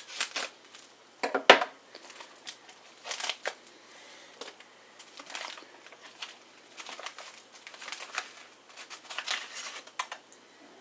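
Stiff plastic MRE ration pouch crinkling and being cut and torn as it is worked open, in irregular short rustles and snips, the loudest about one and a half seconds in.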